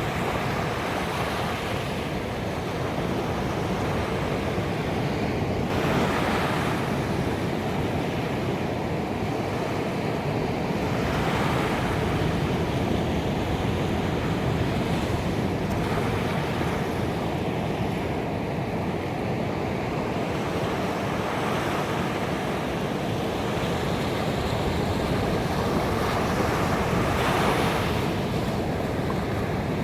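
Ocean surf washing onto a beach: a steady rush of water with waves surging up every several seconds.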